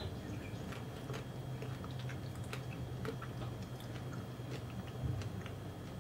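A person chewing a mouthful of ice cream with salted popcorn, with many small scattered crunches, over a steady low hum.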